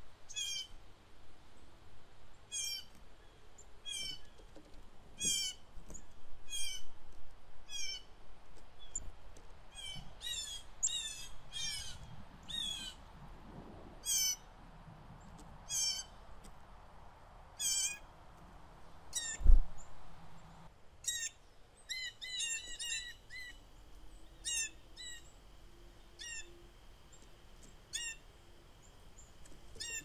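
Songbirds calling: a short, sharp, falling call repeated about once a second, with several birds overlapping in quick bunches. Wind gusts rumble low underneath, and one loud low thump comes about two-thirds of the way through.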